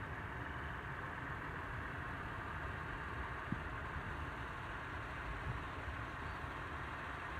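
Steady low rumble of a stopped vehicle's engine idling, with one faint click about three and a half seconds in.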